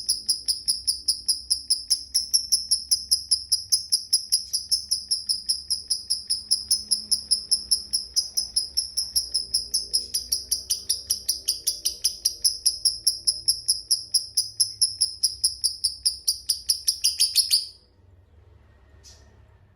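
Lovebird giving the long 'ngekek' chatter: a fast, even run of shrill chirps at about four a second, which breaks off suddenly near the end, followed by a couple of faint short chirps.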